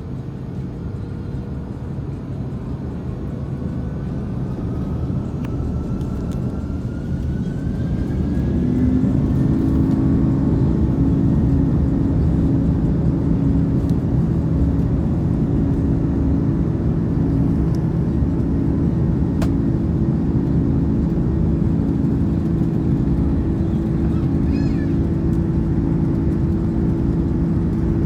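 Airbus A330-300 jet engines heard from inside the cabin, spooling up. The noise grows louder over about nine seconds with a rising whine, then holds at a steady, loud high-power drone.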